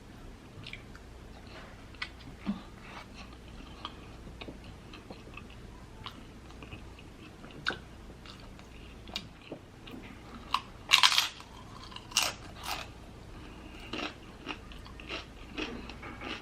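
A person chewing and biting food close to the microphone: a run of small wet mouth clicks and crunches, with a few louder crunches about eleven and twelve seconds in.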